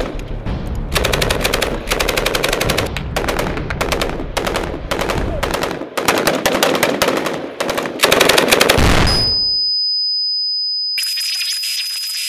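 Repeated bursts of rapid automatic rifle fire, several shots a second, until about nine seconds in. The gunfire then gives way to a thin, high, steady tone, and a hiss comes in near the end.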